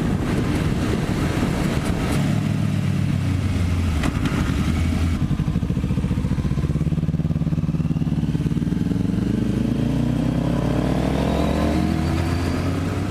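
Sport motorcycle engine with wind rush. The engine falls in pitch as the bike slows off the highway, the wind hiss dropping away about five seconds in; it then runs steadily before climbing in pitch again near the end as the bike accelerates.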